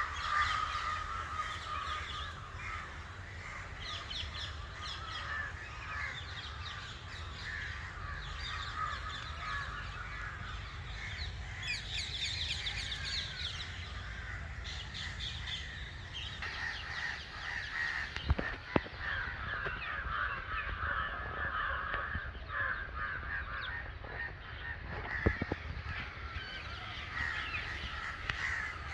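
Crows cawing among a busy chorus of other birds' calls and chirps. A few sharp clicks stand out about two-thirds of the way in and again near the end.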